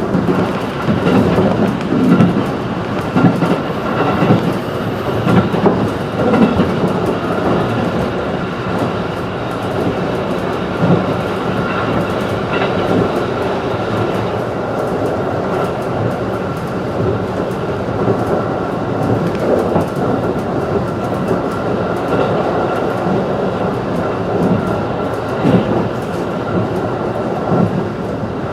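Cabin running noise of a JR 211-series electric multiple unit under way: steady rumble of wheels on rail with clickety-clack over rail joints and a thin steady high tone. The running is rougher, with more knocks, for the first several seconds, then evens out.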